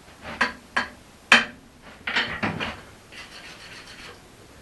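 A few light knocks, the sharpest about a second in, then scraping and rubbing as the forged axe head is handled to check the fit of its eye.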